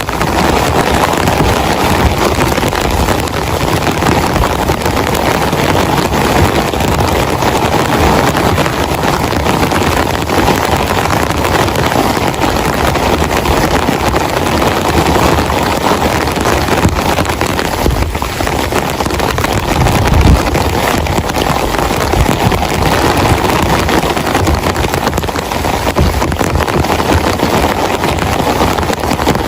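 Heavy rain pouring down steadily, a dense even hiss, with a brief low thump about two-thirds of the way through.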